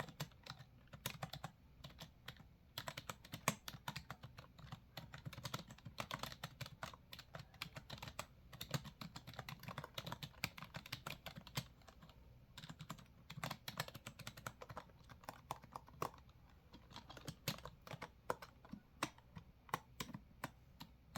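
Typing on a computer keyboard: a fast, uneven run of key clicks with short pauses between bursts.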